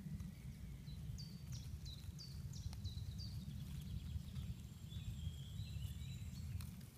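A songbird singing a quick run of about eight short, high, repeated notes in the first few seconds, followed by softer warbling, over a steady low rumble.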